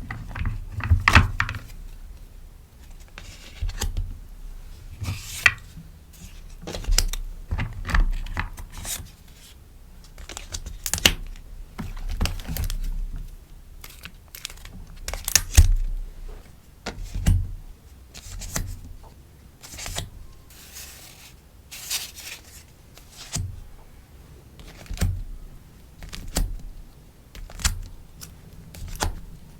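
Sticker orders being packed by hand: crinkling of plastic sleeves and paper, short tearing sounds and light taps, one every second or so, with a few longer rustles.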